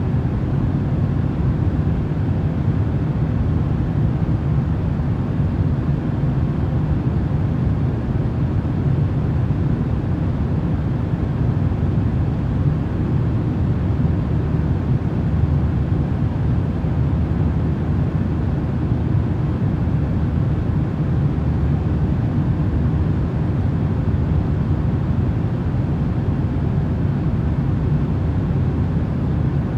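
Steady, unchanging rumble of noise, deep and even, with no tones, rhythm or separate events.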